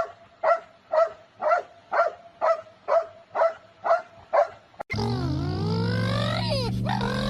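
A dog barking steadily, about two barks a second, ten in a row. About five seconds in it cuts off suddenly, replaced by music with held and sliding tones.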